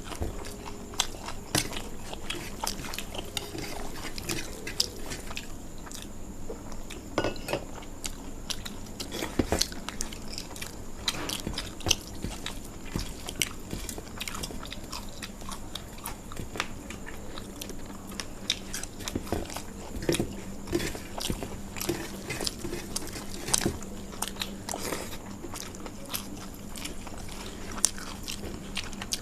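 People chewing and biting food close to the microphone, with frequent irregular crunches and wet mouth clicks, over a faint steady hum.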